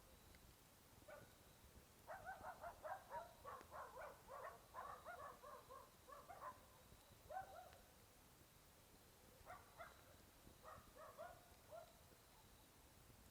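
Distant dog barking in quick runs of short barks, a long run in the first half and a shorter one near the end.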